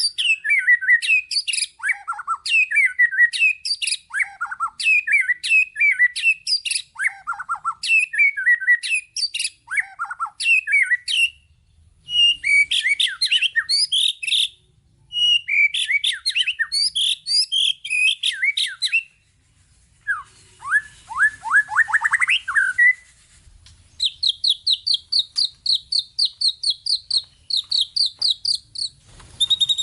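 White-rumped shama (murai batu) singing a varied, continuous song of repeated falling whistled phrases packed with mimicked 'isian' fill-ins, with a few brief pauses. About two-thirds through comes a quickly rising run of notes, then a fast, even trill to the end.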